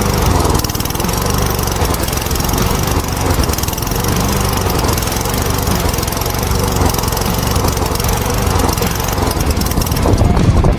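A walk-behind lawn mower's Briggs & Stratton single-cylinder engine running steadily after being started.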